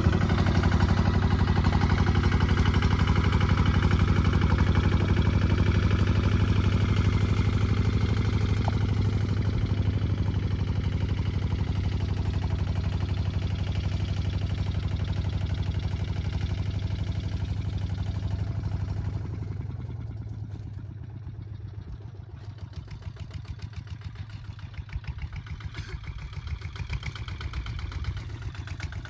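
Kubota ZT 155 DI walking tractor's single-cylinder diesel engine running steadily, then dropping to a quieter, slower beat about two-thirds of the way through.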